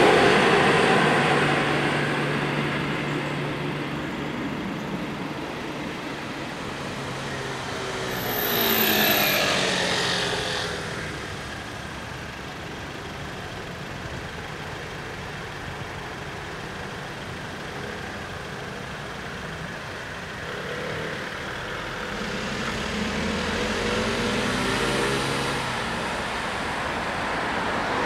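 NMBS class 41 diesel railcar moving off and fading away over the first few seconds. Then road traffic: a vehicle passes with a falling pitch about nine seconds in, and cars pass again in the last few seconds.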